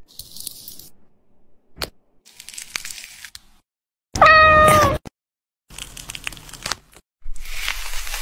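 A cat's single meow, about a second long and the loudest sound, held at one pitch and dropping at the end. It comes between short, abruptly cut bursts of crackly, crunchy food-preparation noise.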